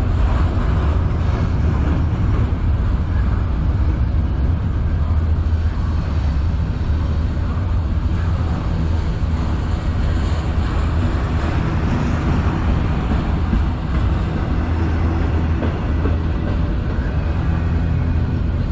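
Freight train rolling past, a steady loud rumble of wheels on rail.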